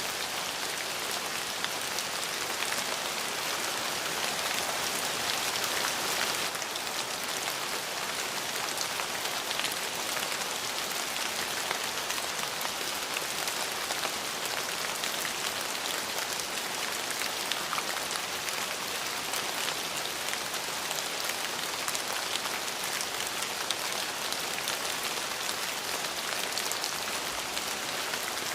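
Steady rain falling on a surface: a dense even hiss of drops with fine individual patters, a little heavier for the first six seconds or so.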